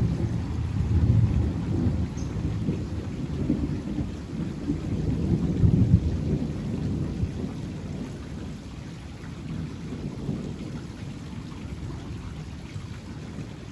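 Thunder rolling in a long low rumble, swelling again about a second in and around six seconds in, then dying away over the second half.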